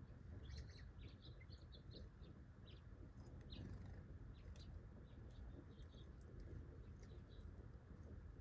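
Faint, quick chirps from small birds, scattered through most of the stretch and thinning out near the end, over a low background rumble.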